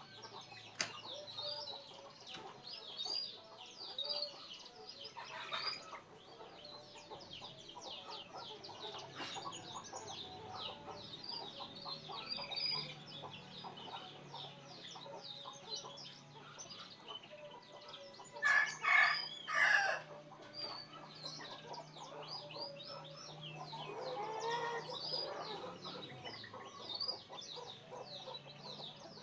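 Chickens clucking, with a rooster crowing about nineteen seconds in, over steady high-pitched chirping throughout.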